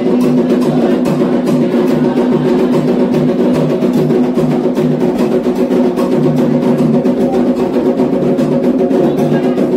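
Candomblé atabaque hand drums played in a fast, steady rhythm, with sharp struck percussion over them.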